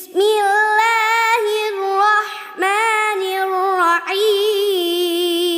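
A child's voice chanting in long, wavering held notes, three phrases in all, in the melodic style of Quran recitation.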